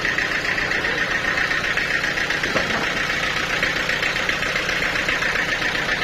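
Sawmill machinery running steadily: an engine hum with a constant high whine.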